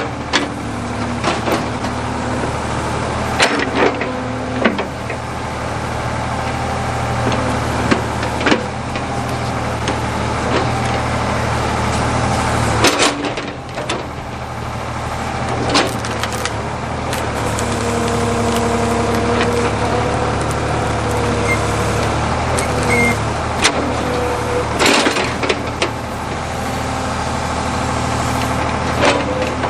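Backhoe engine running steadily under load as it digs out a large tree stump, with a held whine from the working hydraulics for a few seconds past the middle. Sharp clanks and knocks sound now and then, from the bucket striking and working the stump.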